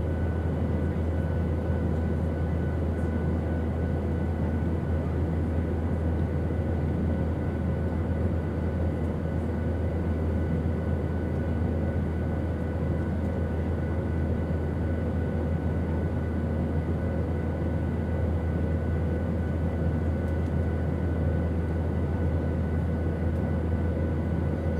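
Airplane in flight: a steady low engine drone under a rushing air noise, with a few faint constant whining tones and no change in pitch or level.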